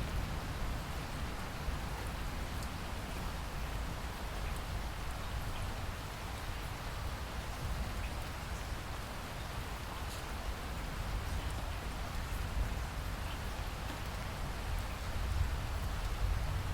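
Steady rain falling, an even hiss with scattered individual drops ticking and a low rumble underneath.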